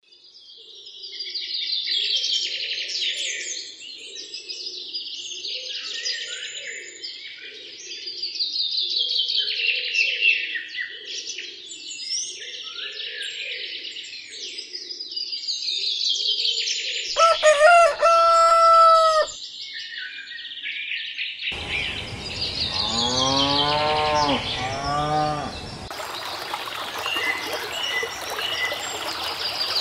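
Farm ambience: small birds chirping throughout, with a loud, steady-pitched farm-animal call about two seconds long just past the middle and a lower, quavering animal call a few seconds later.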